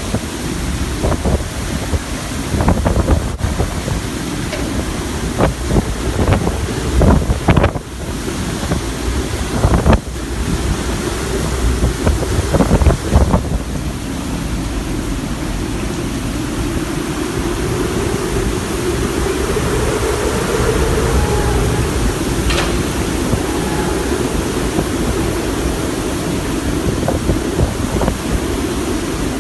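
Hurricane-force wind from a landfalling hurricane buffeting the microphone: a heavy low rumble with sharp gusts through the first half, steadier later on.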